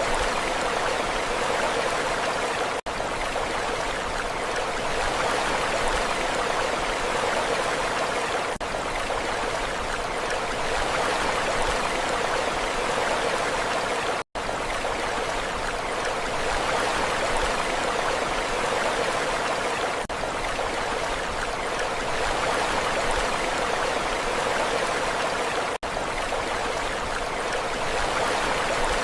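Steady rushing water with an even, unbroken hiss. It drops out briefly about every six seconds, once to near silence for a split second about halfway through.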